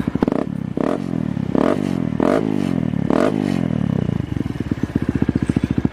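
Kawasaki KLX150 single-cylinder four-stroke engine running through a gutted stock muffler. It idles with a choppy exhaust note, is blipped about five times in the first few seconds (each rev rising and dropping back), then settles back to idle.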